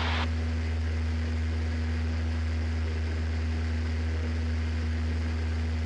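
Steady drone of a Cessna 172's piston engine and propeller in cruise, heard inside the cabin: a constant low hum with a steady higher tone over it.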